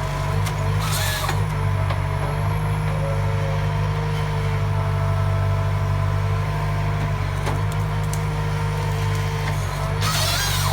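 Heavy forestry machine's diesel engine running steadily under load, with a strong low drone. Two short hisses break in, about a second in and again near the end.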